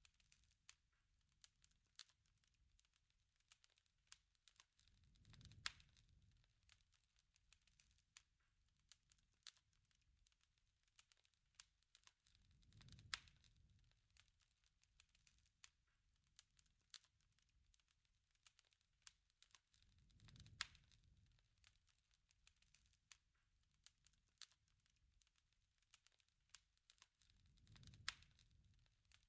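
Faint campfire crackling: scattered pops and snaps over a soft low rumble that swells and fades about every seven and a half seconds.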